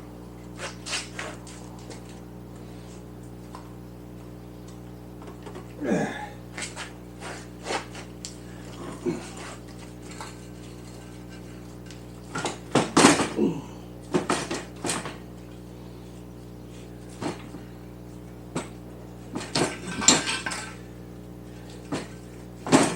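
Scattered metal clinks and knocks as a motorcycle engine and its parts are shifted against the frame to line up the mounts, with two louder flurries of clanking, about halfway through and near the end. A steady low hum sits underneath.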